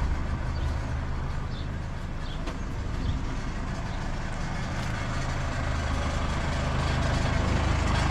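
Heavy diesel engine running steadily under light load, its low drone building slightly toward the end.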